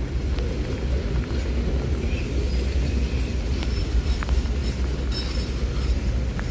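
Stainless-steel passenger coaches rolling past close by on a curve: a steady rumble of wheels on the rails, with a few faint clicks.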